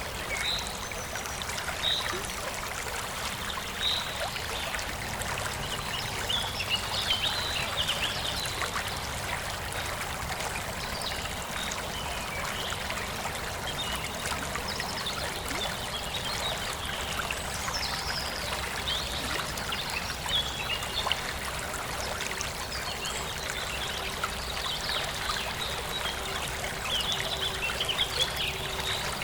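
Forest stream flowing and trickling steadily over stones, with scattered short, high chirps of small birds now and then.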